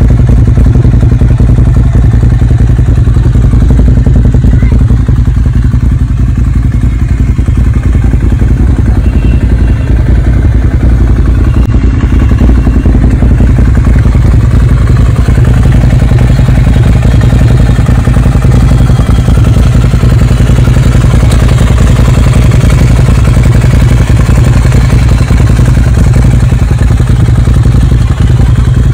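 Ducati Monster 795's air-cooled L-twin running steadily through an aftermarket Termignoni exhaust, a loud, rapid, uneven pulsing exhaust note.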